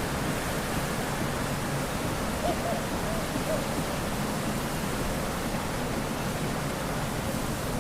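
Wind blowing through bamboo, a steady rustling hiss, with a few faint brief squeaks around the middle.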